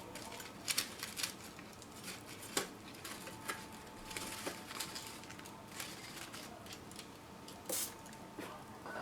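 Small fire of newspaper and kindling crackling, with irregular sharp pops and ticks.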